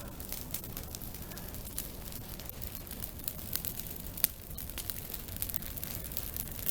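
Campfire of burning spruce branches crackling and popping steadily, with a sharper pop about four seconds in.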